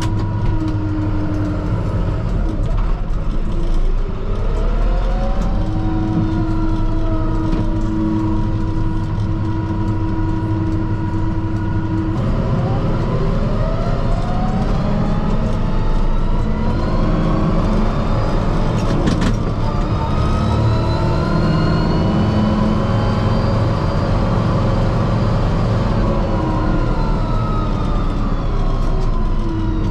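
Kubota M5-091 tractor's four-cylinder turbo diesel heard from inside the cab, working under load while the bucket digs into snow piles, its pitch rising and falling with engine speed. Left in high range, the engine labours in the piles.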